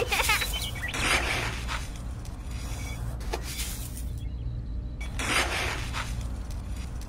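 Dried mung beans tipped from a small scoop into a miniature seed drill's sheet-metal hopper, rattling as they fall, in several separate pours a second or more apart, over a low steady hum.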